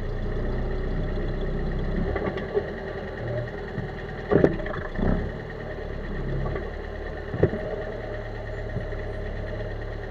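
Chevrolet Corsa running steadily, with a few short knocks and creaks over it: the suspension noise Brazilian mechanics call the 'morceguinho'.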